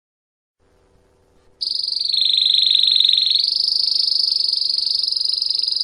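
Belgian canary singing one long, rapid, high-pitched trill that starts about one and a half seconds in; its pitch dips a little for about a second, then rises again and holds.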